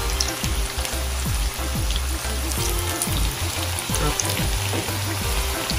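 Breadfruit wedges frying in hot oil in a pan: a steady bubbling sizzle. Background music with a low bass line plays underneath.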